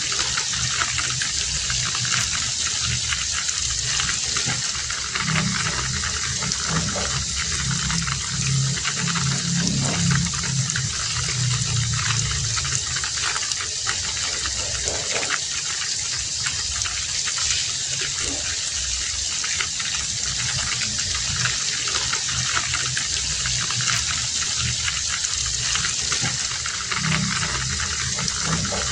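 Heavy rain falling steadily: a dense hiss with scattered single drops ticking through it and a low rumble that swells and fades.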